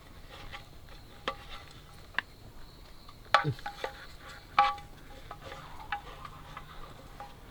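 Scattered light clinks and taps of kitchen utensils against dishes, two louder ringing clinks a little past the middle, over a faint steady hiss.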